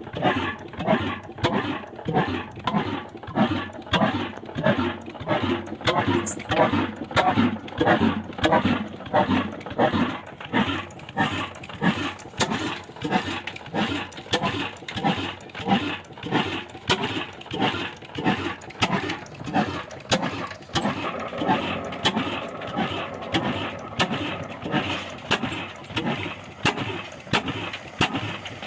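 Old black Ruston Hornsby stationary diesel engine running steadily with an even, regular exhaust beat while it drives a flour mill. About two-thirds of the way in, a steady hum joins the beat.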